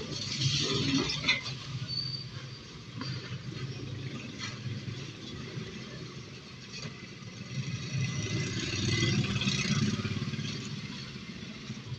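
Automatic ceiling-fan coil winding machine running, its motor humming steadily as it winds copper wire into a stator coil, with a few light clicks; it grows louder near the start and again toward the end.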